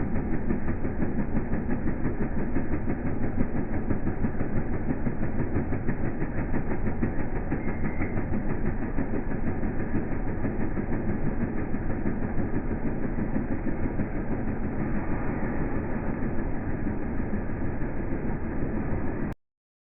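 Engine running steadily with a fast, even chugging; the sound cuts off abruptly near the end.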